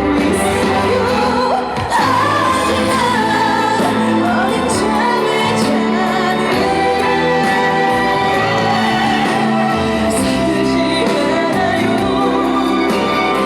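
Amplified live music with a woman singing over the accompaniment.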